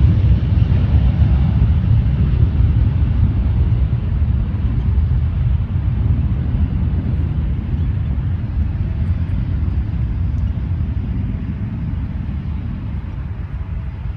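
Jet airliner engines at takeoff power, a very loud low rumble that fades slowly as the plane climbs away.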